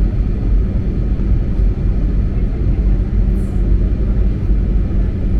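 Steady low rumble of an airliner's engines and rushing air, heard inside the passenger cabin on the descent to landing.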